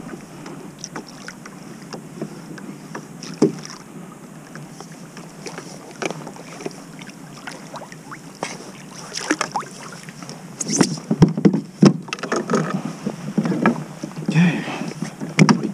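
Pedal kayak running along a crab trotline, the line drawn over the kayak with water noise, scattered clicks and a few sharp knocks against the hull, busier near the end.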